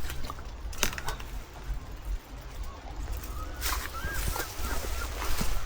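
Outdoor walking ambience with a steady low rumble of wind on the microphone, a few sharp clicks, and several short chirping calls about two thirds of the way in.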